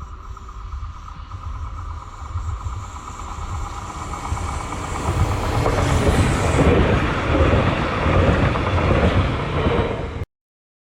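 A train running past, its rumble and wheel-on-rail noise growing louder from about four seconds in and staying loud. The sound cuts off abruptly near the end.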